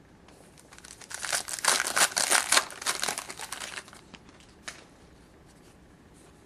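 Foil wrapper of a hockey trading-card pack being torn open and crinkled in the hands, a dense crackling that builds and fades over about three and a half seconds, followed by a single small click.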